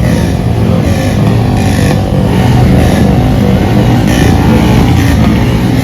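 Motorcycle engines running steadily and loudly at close range.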